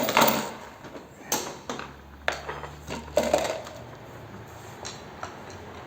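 Metal tools and parts clinking and knocking as they are handled, with a burst of sharp knocks in the first few seconds, the loudest right at the start, then quieter handling.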